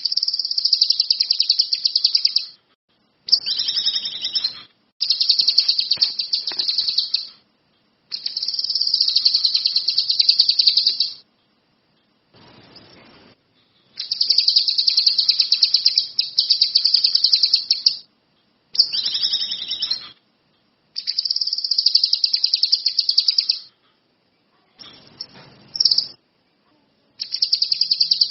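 Kinoi songbird singing in repeated phrases of very rapid, high trilled notes, each phrase about one to four seconds long, with short silent breaks between them.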